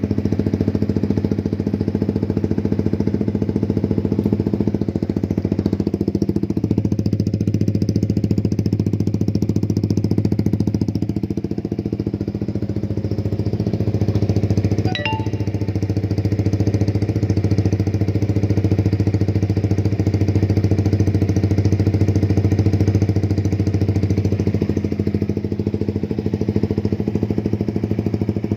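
Yamaha Vixion 150cc single-cylinder four-stroke engine idling steadily through a loud aftermarket racing exhaust, with a brief click about halfway through.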